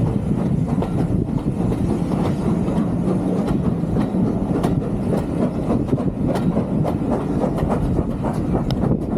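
Heritage steam train running along the line: a steady low rumble with an irregular clatter of wheels clicking over the rails.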